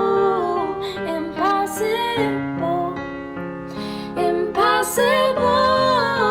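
A woman singing a gliding melody over held chords from an accompanying instrument, part of a slow ballad.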